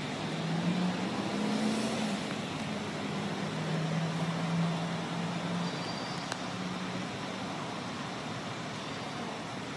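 Steady rumble of traffic and a passing Union Pacific freight train, heard from inside a stopped car, with a low engine hum from about half a second to seven seconds in.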